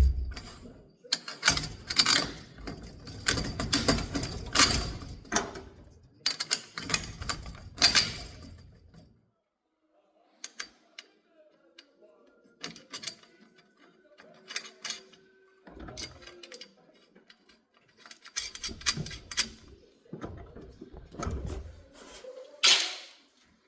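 Sectional garage door worked by hand along its tracks for a balance test, its rollers and panels rattling and clattering in two long bursts with a quieter stretch between them.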